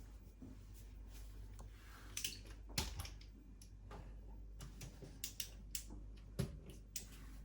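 Scattered light clicks and taps from hands working small parts and tools, with two sharper knocks, one about three seconds in and one about six and a half seconds in.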